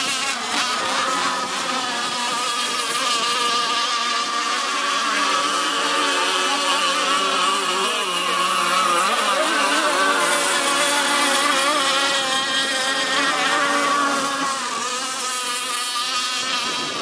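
Engines of gas-powered RC racing catamarans running at speed: a steady, high-pitched buzzing whine. Several pitches overlap and waver as the boats race, and it gets a little louder about halfway through.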